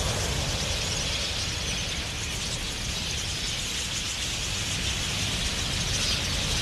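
A huge flock of wild budgerigars in flight, heard as a dense, steady wash of massed wingbeats and high chirping, with a low rumble underneath.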